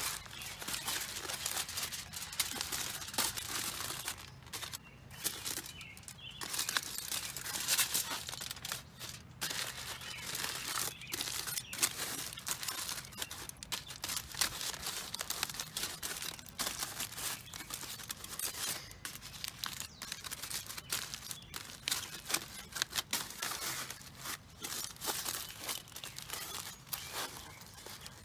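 Aluminum foil being crumpled and wrapped by hand: continuous, irregular crinkling and crackling.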